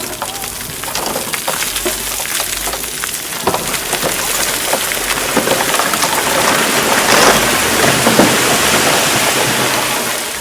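A load of big rocks and soil sliding and tumbling out of a tipping dump truck bed: a dense clatter of many small knocks that builds to a peak about seven seconds in, then eases.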